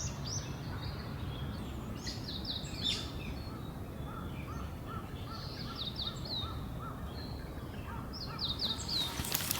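Wild birds calling in woodland: runs of quick, high down-slurred notes, with a slower series of lower repeated notes through the middle. Underneath is a steady low background noise, and a few sharp clicks come near the end.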